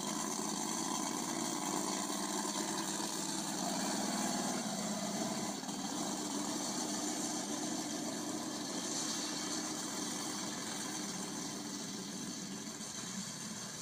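Monster truck engine idling steadily, easing off slightly near the end.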